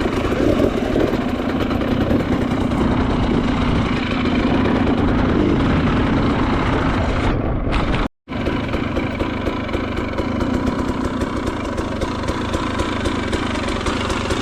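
Enduro motorcycle engine running loud and continuously as the bike is ridden. The sound breaks off for a split second about eight seconds in, then resumes.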